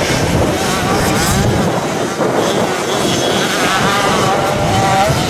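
Several motocross bike engines revving hard together, their pitch rising and falling as the riders accelerate and shift.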